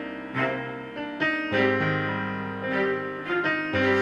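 Piano music playing slow sustained chords, a new chord struck every second or so.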